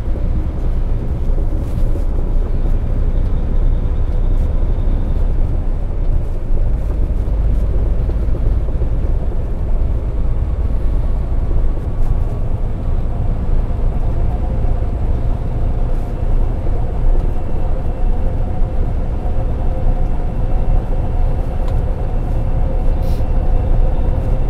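Semi truck's engine and road noise heard from inside the cab while driving: a steady, loud low rumble with a faint engine drone over it.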